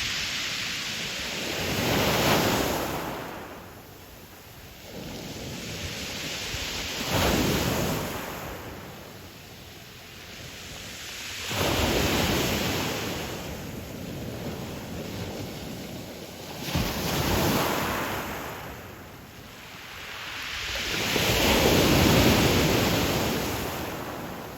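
Ocean waves breaking and washing back on a pebble beach, five waves swelling and fading one after another.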